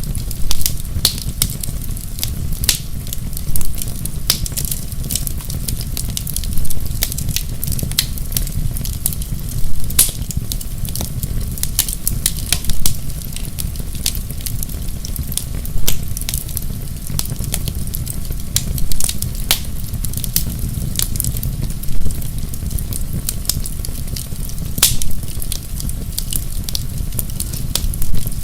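Wood fire burning in a fireplace: a steady low rumble of flame with constant sharp crackles and a louder pop every few seconds.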